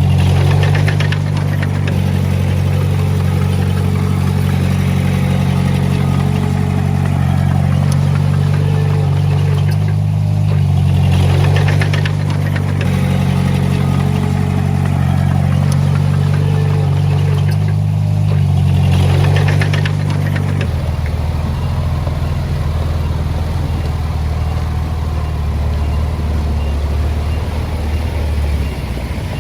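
Heavy-equipment diesel engine running steadily, its note dropping lower about two-thirds of the way through, with three brief rushes of noise over it.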